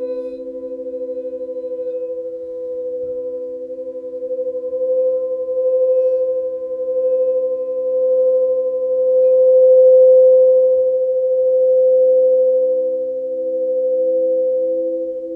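Sound-healing drone of several steady tones held together and layered, with a slow wavering pulse; the whole swells to its loudest a little past the middle.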